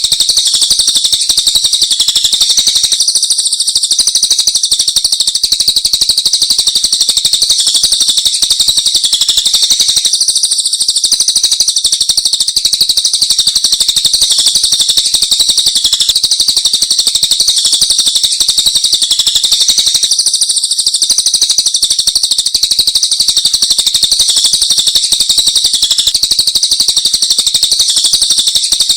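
Dense, unbroken high-pitched songbird song, rapid chirps and trills packed together with no pauses. It is a masteran training recording that combines the songs of several caged songbirds such as canary, lovebird and ciblek.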